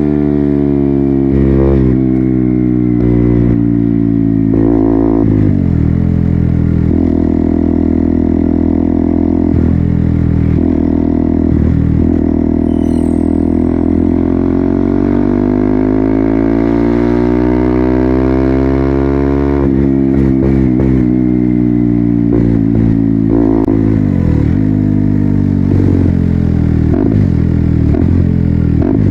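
KTM Duke 200 single-cylinder engine running through an Akrapovic full-system exhaust while the bike is ridden, rising and falling in pitch through a series of gear changes. In the middle there is a long, steady climb in revs that drops away sharply about two-thirds of the way in.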